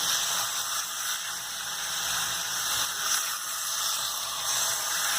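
Seasoned chicken pieces sizzling steadily as they fry with onion in melted butter in a pan.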